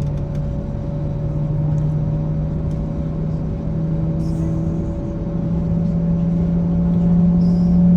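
Airliner cabin noise inside an Airbus A321neo: a steady low drone with a strong hum that slowly rises in pitch and grows louder toward the end.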